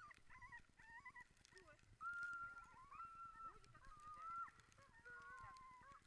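Several sled dogs whining and howling together in overlapping high calls, with longer held howls in the middle.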